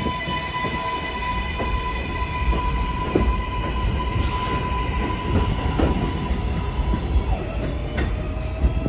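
R188 7 subway train running with a steady high whine from its propulsion that holds one pitch, then drops lower about seven seconds in, over a low rumble of the cars and wheels clacking over rail joints.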